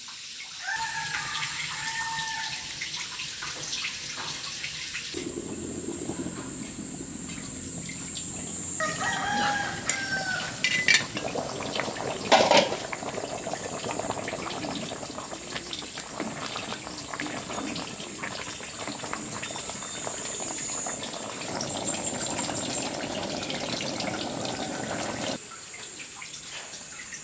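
Rooster crowing, about a second in and again around nine seconds in, over a steady rushing noise like running water and a steady high-pitched hiss, with a few sharp knocks near the middle.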